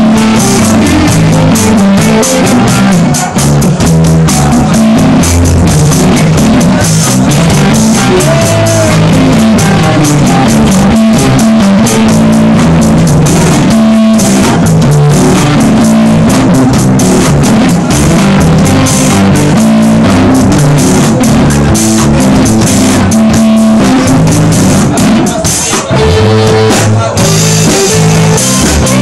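Live instrumental jam of electric guitar, bass guitar and drum kit playing together, loud and distorted in an overdriven recording.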